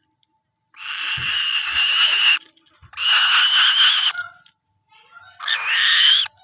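Falcon giving three long, harsh screeches in a row, each about a second or more, the last one shortest.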